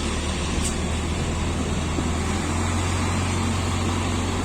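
JCB diesel engine running steadily with a deep, even low drone.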